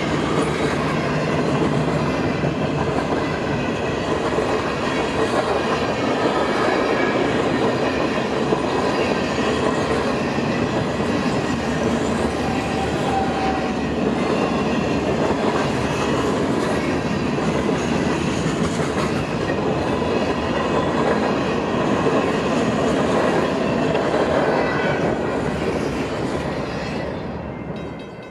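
Train cars rolling past, with steady wheel noise and clacking over the rail joints, fading out near the end.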